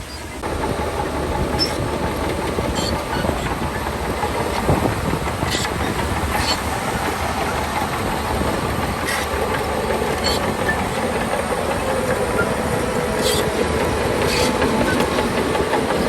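Shantui DH17C2 crawler bulldozer working: its diesel engine runs steadily under a clattering of steel tracks, with sharp metallic clanks every second or two.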